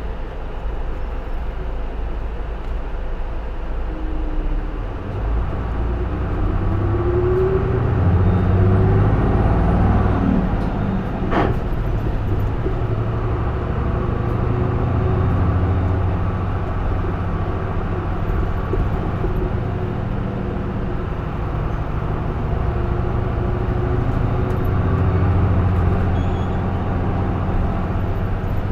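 Interior running sound of a J-Bus PKG-LV234L2 (Isuzu Erga) diesel route bus. The engine pulls with a rising pitch for several seconds as the bus accelerates, there is a sharp click about eleven seconds in, and then the bus runs on at a steady pace.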